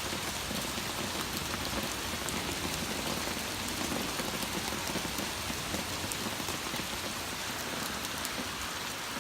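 Torrential rain pouring down: a steady, even hiss with scattered sharp drop ticks.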